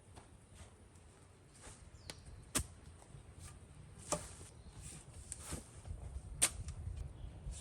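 A few sharp knocks of wood striking wood, three of them clear and spaced a second or two apart, with softer handling noise in between.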